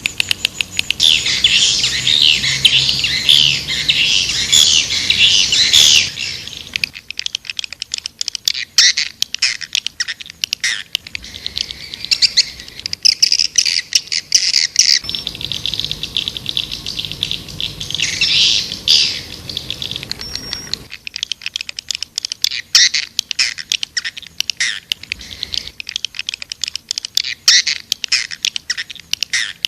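White-nest swiftlets calling: a dense chorus of rapid twittering chatter and clicks that swells loud and fades back in stretches. It is a swiftlet lure call, the sound played to draw swiftlets into a nesting house.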